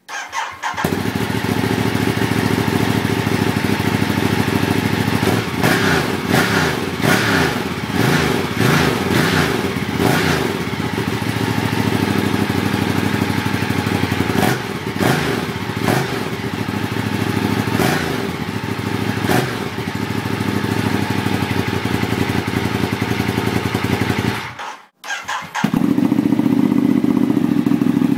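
Ducati Diavel's V-twin with a Comp Werkes aftermarket exhaust, starting up and idling, with repeated short throttle blips in the middle that rise and fall. Near the end the sound cuts out for a moment, then the engine idles steadily again.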